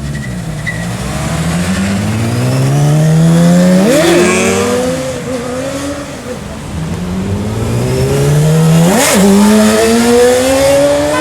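Sport motorcycle engine accelerating hard, its pitch climbing steadily and then dropping sharply at gear changes about four and nine seconds in before climbing again.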